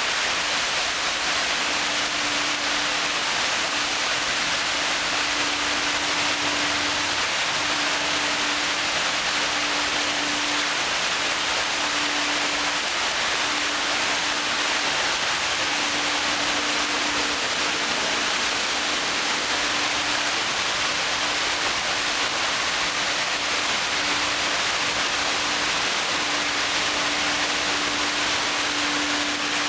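Water falling steadily down a man-made park cascade, an even rushing noise. A steady hum breaks in and out every second or two beneath it.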